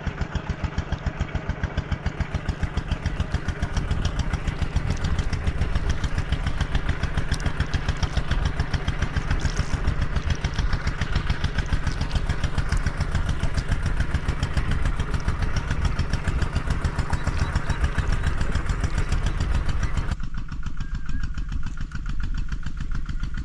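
A small engine running steadily with rapid, even pulses. About twenty seconds in, the sound thins and becomes quieter in its upper range.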